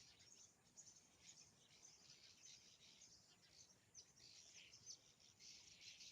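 Faint, dense chorus of birds chirping, many short high calls overlapping continuously.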